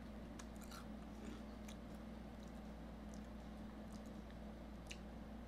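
Faint chewing of fried food, with scattered soft mouth clicks and crunches every half second or so, over a steady low hum.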